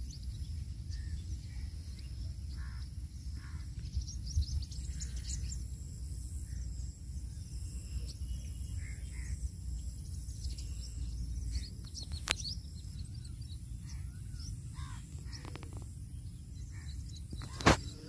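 Outdoor ambience of small birds chirping now and then over a steady low rumble. A sharp click sounds near the end.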